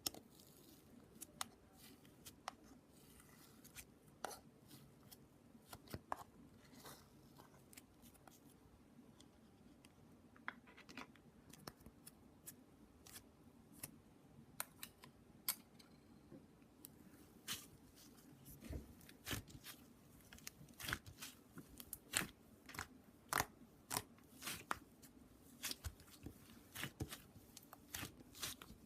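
Close-up crisp snips and crackles, like scissors cutting and paper being handled. They are sparse at first and come several a second in the second half.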